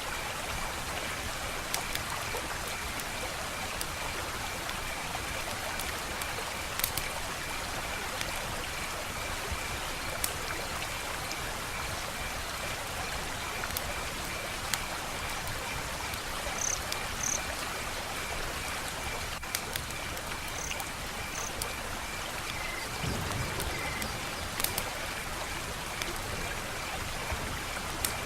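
Wood fire crackling: a steady hiss with scattered sharp snaps and pops.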